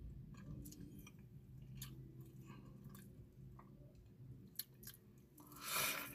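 Faint chewing of crispy fried chicken with scattered small wet mouth clicks over a low steady hum, then a louder bite into a piece of fried chicken near the end.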